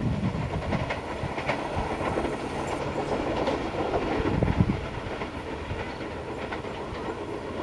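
KRL electric commuter train passing close by, its wheels rumbling and clacking over the rail joints. The noise is loudest about four to five seconds in, then eases as the train runs past.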